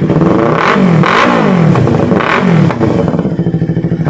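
Yamaha R3's 321 cc parallel-twin engine breathing through an aftermarket M4 exhaust, revved with three quick throttle blips, each rising and falling back, then settling toward idle near the end.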